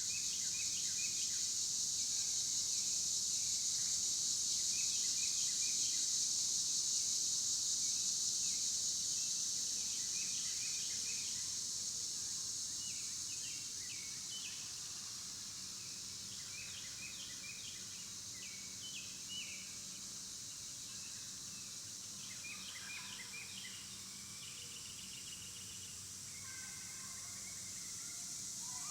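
A steady high-pitched insect drone that grows louder early on and then fades, with bursts of short bird chirps scattered through.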